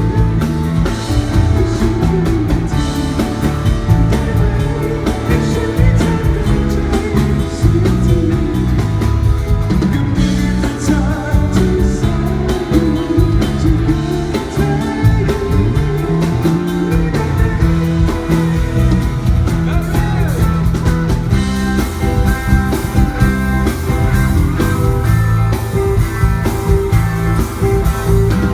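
Band music with a singer: a rock-pop song played loud with a steady beat, guitar and vocals throughout.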